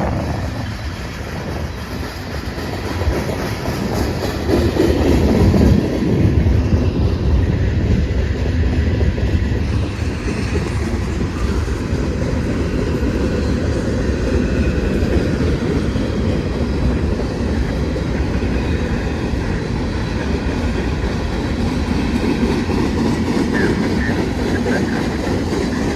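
Freight train rolling past, its cars' steel wheels running over the rails in a steady, loud rumble that swells about four to six seconds in.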